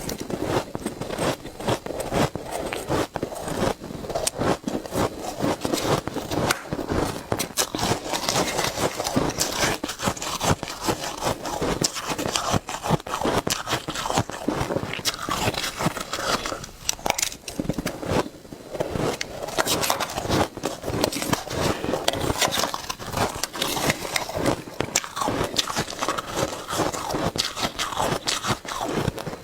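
Shaved ice being bitten and chewed: a continuous, dense run of crunching and crackling.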